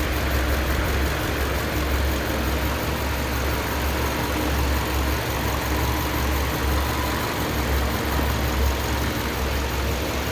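Freshly rebuilt 2007 Subaru Impreza flat-four boxer engine idling steadily on its first start-up, with a low, even rumble.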